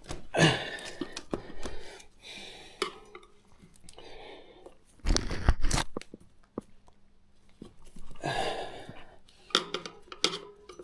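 Irregular scraping, rubbing and knocks as a rubber tyre bead is worked over a motorcycle wheel rim by hand and with a tyre lever, with a heavier bump about halfway through.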